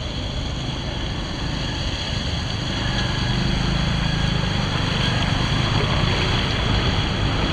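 Floodwater rushing steadily into a cleared street drain, getting louder about three seconds in.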